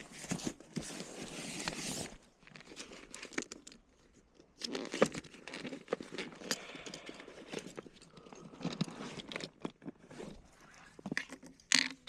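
Crinkling, crunching rustle of dry straw and gear as someone shifts and handles things in a straw-brushed layout blind. It comes in bursts with scattered clicks, and two sharper, louder snaps come near the end.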